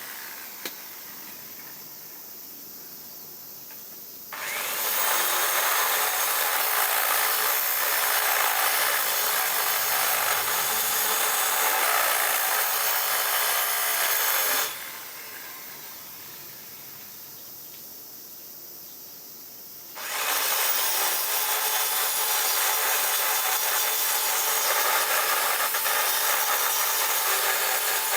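A power tool running in two long stretches: it starts abruptly about four seconds in, cuts out after about ten seconds, and starts again about five seconds later.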